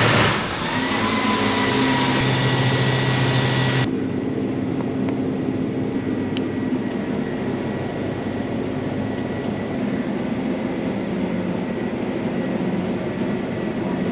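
Case IH 8250 combine's diesel engine running steadily just after start-up, with a steady whine over a low hum. A loud hiss cuts off abruptly about four seconds in, and the engine runs on.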